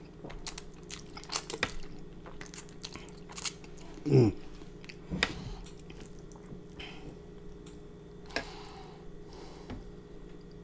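Close-miked eating of spicy black bean noodles: wet chewing, slurping and smacking mouth sounds with scattered sharp little clicks. About four seconds in comes a brief low voiced sound falling in pitch, the loudest moment. A faint steady hum runs underneath.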